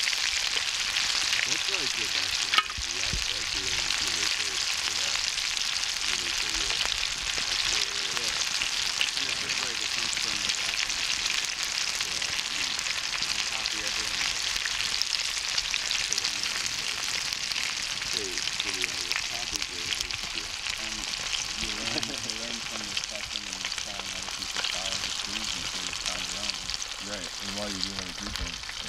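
Chicken frying in hot oil in a pan: a steady, even sizzle. A single sharp click comes about two and a half seconds in.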